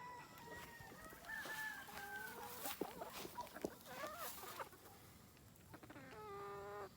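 Free-range chickens clucking and calling in a series of short calls, with a longer held call near the end.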